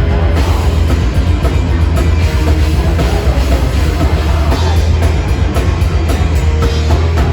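Live heavy metal band playing at full volume: distorted electric guitars over fast, dense drumming with heavy bass drum, recorded loud from the audience.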